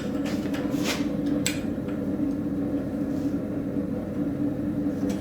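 A steady machine hum runs throughout. Over it, a few sharp, light taps of metal on metal fall in the first second and a half: light work on a forged railroad spike.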